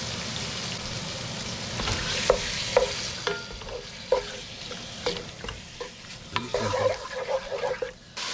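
Chicken pieces sizzling as they brown in hot olive oil in a pan, with a utensil clicking and scraping against the pan now and then as they are stirred.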